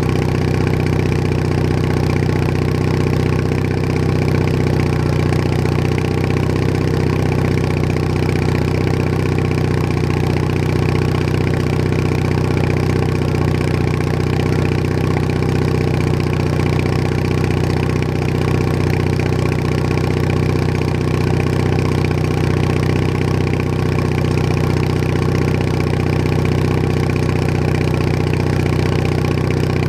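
Bolens HT20 garden tractor's engine running steadily at a constant speed, heard from the tractor being ridden.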